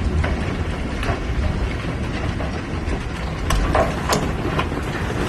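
Hail pelting down: a dense, steady rattle of hailstones striking, with a low rumble underneath and a few sharper single hits about three and a half to four seconds in.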